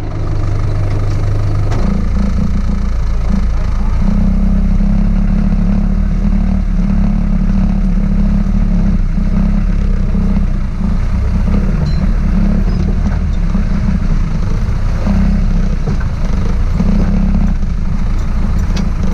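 Off-road 4x4's engine running steadily under load as the vehicle drives along a muddy track; about two seconds in the engine note rises to higher revs and holds there.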